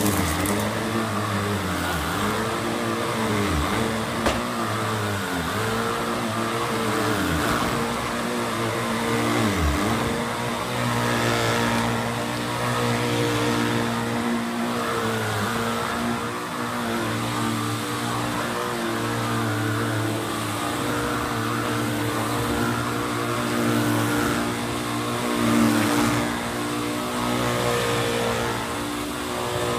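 1989 Electrolux Twin Turbo upright vacuum cleaner running on carpet, a steady motor hum with rushing air. Its pitch dips sharply several times in the first ten seconds, then holds steady.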